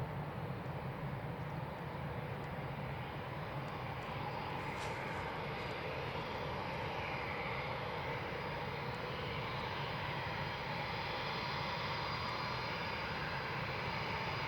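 Eurofighter Typhoon jet engines running at a distance: a steady jet rumble and hiss with a faint whine that drifts slowly in pitch.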